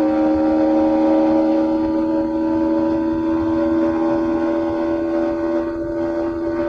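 Yamaha MT-15's 155 cc single-cylinder engine through its stock exhaust, running at high, steady revs while the bike is ridden. The pitch drops a step right at the start, then holds level.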